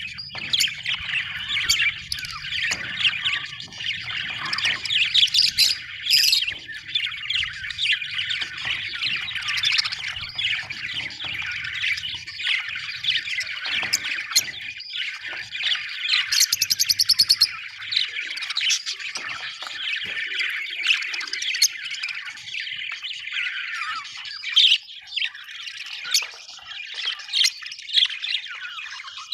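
Budgerigars chattering without a break, a dense mix of warbling, chirps and squawks, with a rapid, even buzzing trill about two thirds of the way through.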